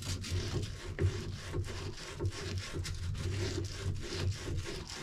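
Hand sawing with quick, even back-and-forth strokes, about three a second.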